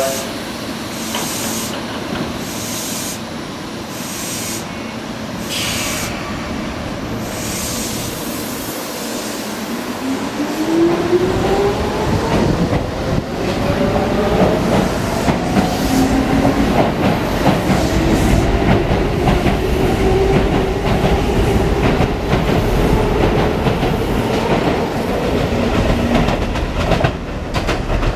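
Chiba New Town Railway 9000 series electric train pulling away from a station. A high-pitched sound repeats about once a second over the first several seconds. About ten seconds in, the traction motors start up with a whine that rises in pitch, over a growing rumble of wheels on rail that gets louder as the train gathers speed.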